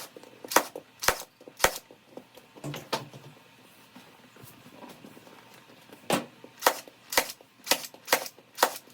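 Staple gun firing staples through a vinyl seat cover into a golf cart headrest's plastic backing: a run of four sharp shots about half a second apart, a pause, then six more at the same pace near the end.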